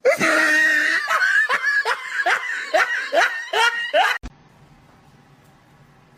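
A person laughing hard in a run of repeated falling 'ha' bursts, about two or three a second, that cuts off suddenly about four seconds in, leaving a faint steady hum.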